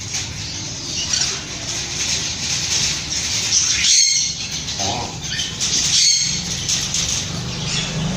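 Mating tortoises: irregular scraping, rustling bursts with a brief squeak about five seconds in.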